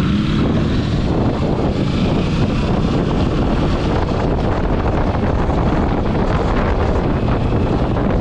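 Wind rushing over the microphone of a moving motorcycle, with road and engine noise beneath it.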